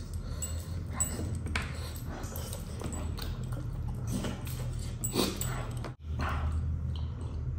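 Close-miked eating sounds: a man chewing a mouthful of fish and rice, with wet mouth clicks and lip smacks at irregular intervals.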